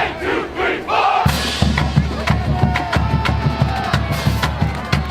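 Marching band drumline playing a steady cadence of bass drums and cymbal crashes. Crowd shouting fills a short gap in the drumming, and the drums come back in with a cymbal crash about a second in.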